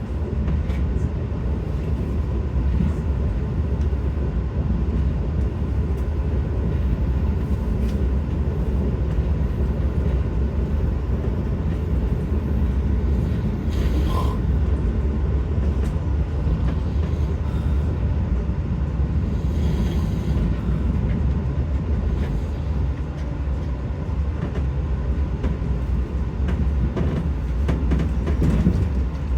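Passenger train running, heard from inside the coach: a steady low rumble of wheels and running gear on the rails, with a faint steady whine above it.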